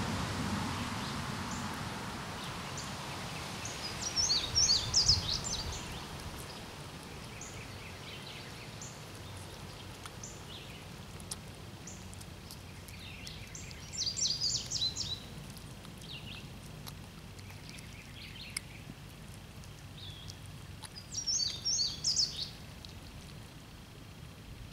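A songbird singing a short, rapid phrase of high notes three times, roughly seven to eight seconds apart, with faint scattered chirps in between, over steady outdoor background noise.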